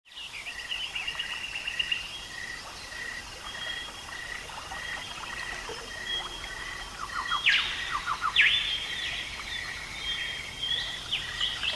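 Birds calling over open-air ambience: one bird repeats a short high note about twice a second, with trills near the start and quick sweeping chirps from others in the second half.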